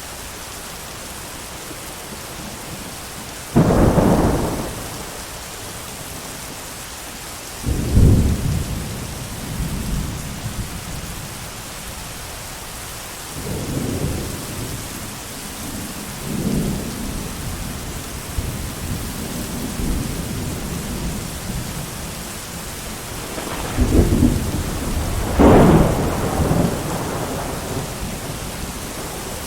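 Steady heavy rain with thunder. A sharp clap comes about four seconds in and another at about eight seconds, with lower rolling rumbles through the middle and two more loud claps close together near the end.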